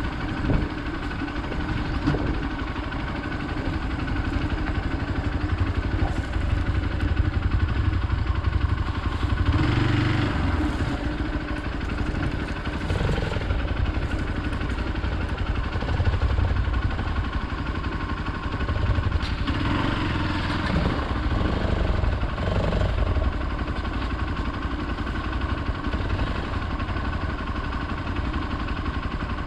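Hero Xpulse 200 single-cylinder motorcycle engine running steadily while riding off-road, with a strong low rumble under it and a couple of slight swells in engine sound.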